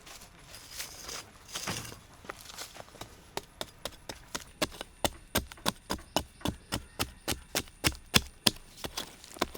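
Wood being chopped with a hand tool in quick, regular strokes, about three a second, starting a few seconds in after some soft rustling.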